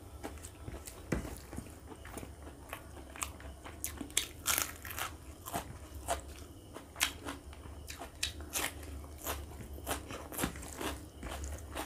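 Close-miked chewing and biting as a person eats rice and pork curry by hand, with frequent short, sharp crunches at an irregular pace.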